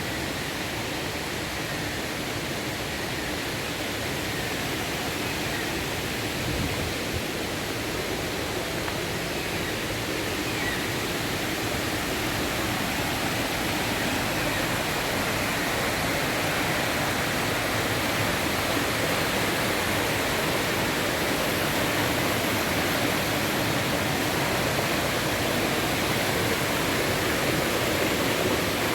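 Curtis Falls waterfall: a steady rush of falling water, growing slightly louder over the last half.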